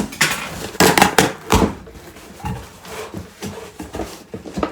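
Handling noise from a box or packaging: a cluster of sharp rustles and knocks in the first couple of seconds, then softer scattered ones.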